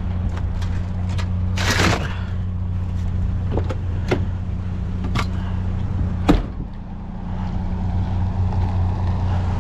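A motor vehicle's engine idling with a steady low hum. Over it come short knocks and a rustle from rummaging through a trash can: the loudest rustle is just before two seconds in, and single knocks follow at about four, five and six seconds.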